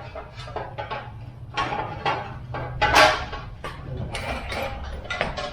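A series of irregular knocks and clatters over a low steady hum.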